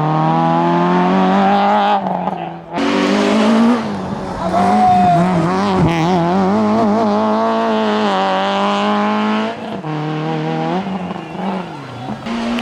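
Citroën Saxo VTS 16V's 1.6-litre sixteen-valve four-cylinder racing up a hillclimb at high revs, the pitch climbing, breaking off briefly at gear changes or lifts and climbing again, with a brief tyre squeal about five seconds in.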